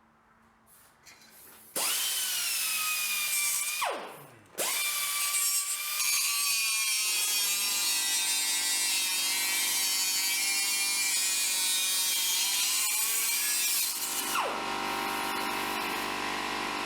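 Electric power cutting tool trimming sheet-metal patch panel: it spins up to a high whine, briefly winds down, then restarts and cuts steadily with a harsh metallic hiss for about ten seconds before its pitch drops and it runs on more quietly.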